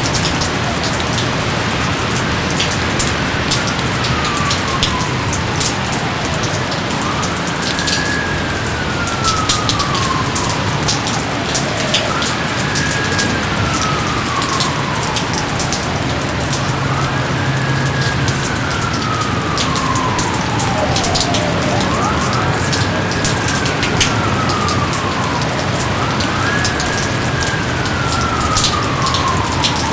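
Steady heavy rain with close drops ticking. Over it, a thin tone repeatedly rises quickly and then slides slowly down, about every four to five seconds.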